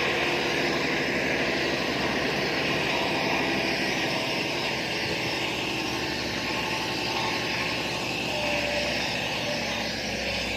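Heavy diesel earthmoving machinery running steadily, a dense low engine drone with a rattling, clattering edge.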